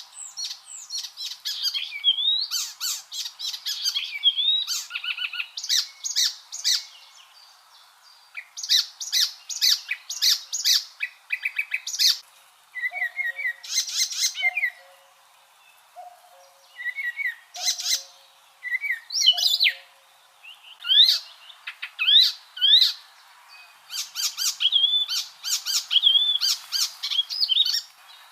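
Icterine warbler singing: fast, varied bursts of chattering, trilled and whistled notes, including quick rising slurs, broken by short pauses.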